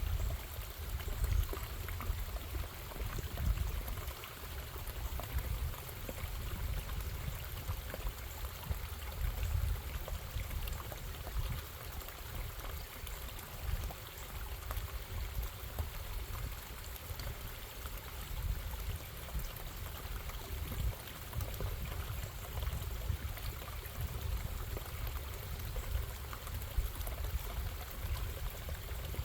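Running stream water: a steady bubbling rush with a deep rumble underneath.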